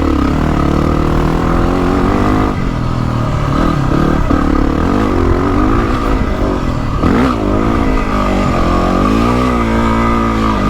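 Yamaha WR250R's single-cylinder four-stroke engine revving up and down repeatedly under throttle as the dirt bike climbs a steep trail, with a sharp rev rise and drop about seven seconds in.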